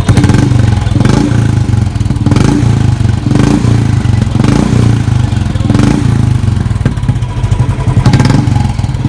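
Royal Enfield Standard 350's single-cylinder engine running through an aftermarket short-bottle silencer, a steady low thump that swells briefly about once a second as the throttle is blipped.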